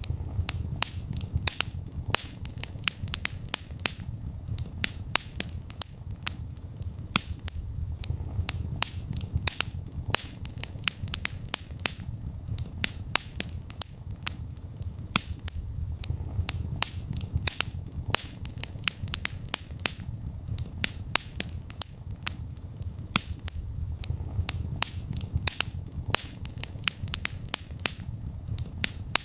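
Wood fire burning in a fireplace: many sharp, irregular crackles and pops over a low, steady rumble of the flames.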